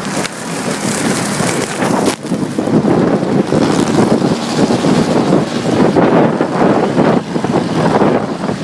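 Wind rushing and buffeting over the microphone of a moving motorcycle, mixed with engine and road noise.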